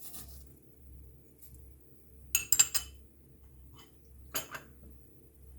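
A metal spoon clinks against a pan: a quick run of three or four clinks about two and a half seconds in, then one more clink a couple of seconds later.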